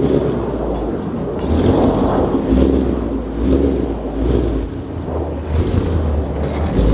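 Car engine running and revving, with a strong low rumble that rises and falls.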